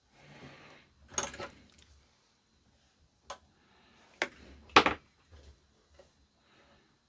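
Small tools and parts being handled on a workbench: a brief rustle, then a few sharp clicks and knocks, the loudest about five seconds in.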